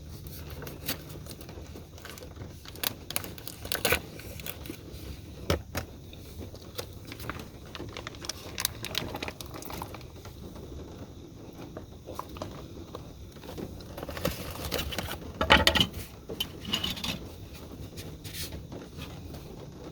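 Handling of plastic food packaging: crinkling and tearing with scattered clicks and knocks, busiest and loudest about fifteen seconds in.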